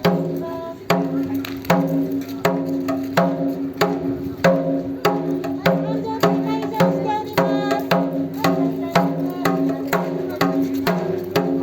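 Taiko drum struck in a steady rhythm, a sharp stroke roughly every 0.7 seconds, over held musical tones.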